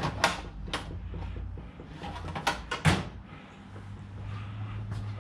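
A few sharp clicks and knocks in the first three seconds, over a low steady hum.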